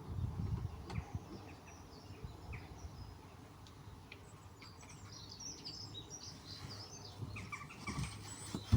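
Small birds chirping and twittering, in many short high calls that grow busier in the second half, with faint low knocks and rumbling near the start.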